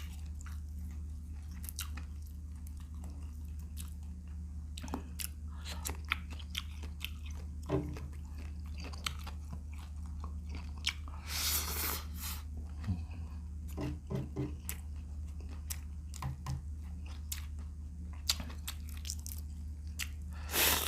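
Close-miked eating of shrimp paksiw: biting and chewing, with crunching and many short wet clicks and snaps. There is one longer noisy sound about halfway through, over a steady low hum.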